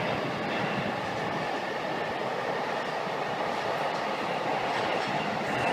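Shinkansen train moving at the platform, a steady rolling and running noise with no distinct clicks or tones.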